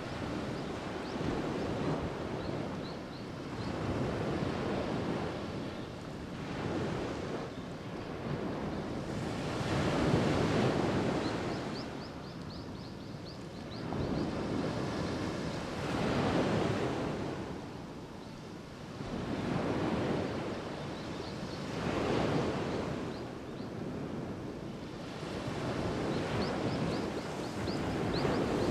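Waves breaking at the shoreline, the surf swelling and ebbing in repeated surges every few seconds, the loudest about ten seconds in.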